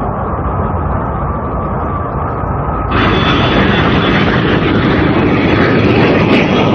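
Cartoon spaceship engine sound effect: a steady rumbling roar that jumps to a louder, brighter rush about three seconds in.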